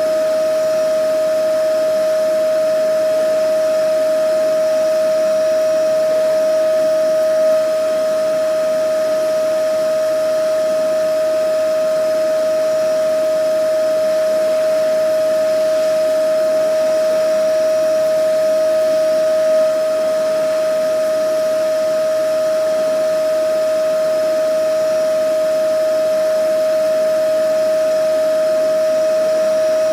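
Vacuum cleaner running steadily: a constant whine over an even rushing hiss, with no change in pitch or level.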